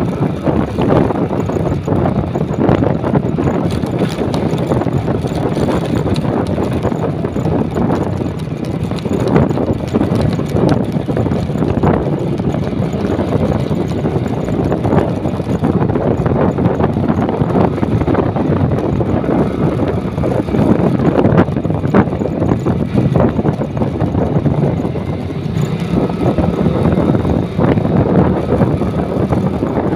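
Motorcycle running steadily while being ridden, with wind buffeting the microphone.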